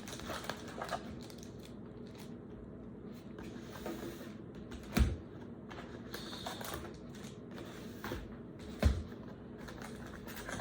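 Trading-card box and foil packs being handled: faint rustling and crinkling, with two sharp knocks about five and nine seconds in.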